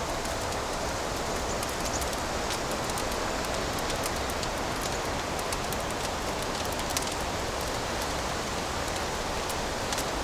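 Fireplace fire burning with a steady hiss and frequent small crackles and pops.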